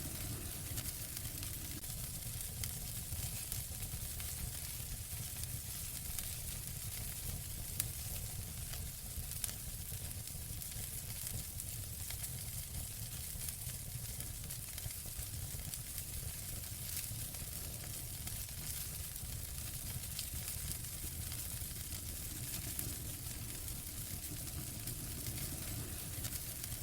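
Wood fire in a fireplace crackling and hissing steadily, with a low rumble of the flames beneath and a couple of sharper pops about eight and nine seconds in.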